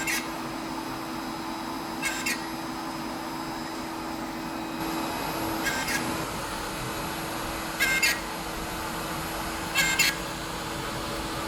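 CNC machining centre for composite panels running with a steady hum, its extraction or spindle noise constant, while short high double chirps come about every two seconds.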